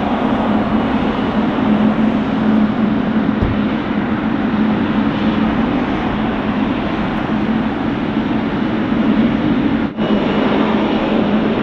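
Boeing 777 freighter's GE90 jet engines running with a steady loud roar-like noise and a constant low hum, briefly dropping out about ten seconds in.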